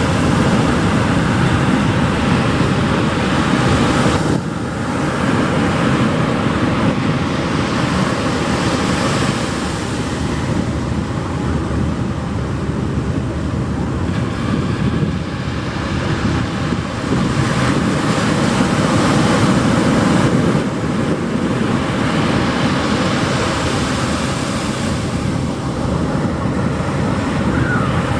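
Pacific Ocean surf washing onto a beach: a continuous rush of breaking waves that swells and eases every several seconds.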